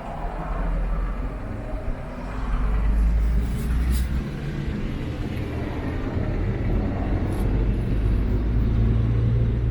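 Yamaha Tracer 900 (MT-09 Tracer) motorcycle's 847 cc inline-three engine running steadily, a low-pitched note that grows somewhat louder a couple of seconds in.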